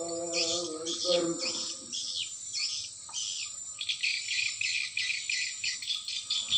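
Edible-nest swiftlets twittering: dense, rapid high chirps, thinning for a moment about halfway through, over a thin steady high tone. A drawn-out voice is heard briefly in the first second.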